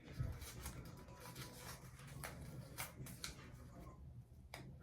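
Faint scattered clicks and rustles of adhesive tape being pulled and wrapped tightly around a finger.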